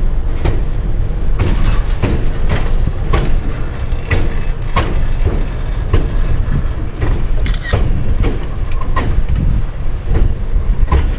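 Train rolling along the track, with a steady low rumble and sharp clacks from the wheels, about two a second and irregularly spaced, heard from the open rear deck.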